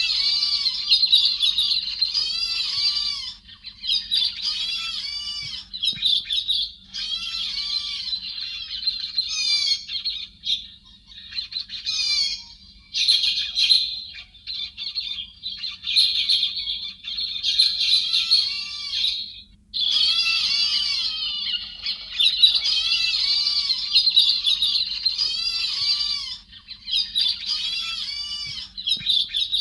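Thrush known in Vietnam as héc xoan calling in long bouts of rapid, harsh chattering notes, each note rising and falling, broken by short pauses.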